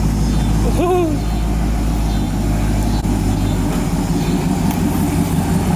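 Car engine running loudly at a steady idle with a rumbling exhaust note; its low tone shifts slightly about two-thirds of the way in. A short whoop-like voice cuts in about a second in.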